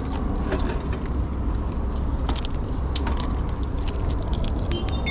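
Steady low outdoor rumble with scattered light clicks. Near the end comes a short run of rising electronic beeps from the e-bike's alarm.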